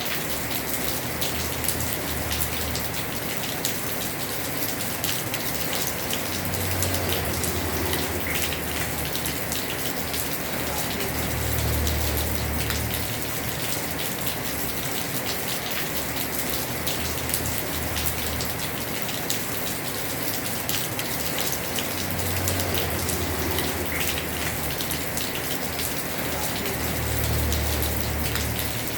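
Heavy rain pouring onto a house roof: a steady hiss of drops, with low rumbles swelling and fading every few seconds.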